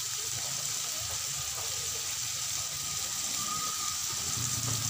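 Shrimps frying in butter with garlic and onions in a metal wok: a steady sizzle while a spatula stirs them.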